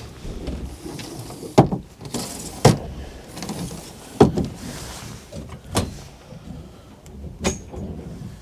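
Storage doors and lids in a boat cabin being opened and shut: a run of five sharp knocks and clunks about a second or so apart, with rustling handling noise between them.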